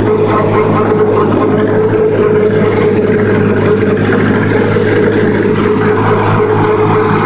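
Farm tractor engine running steadily while mowing hay, with a steady hum over the engine note.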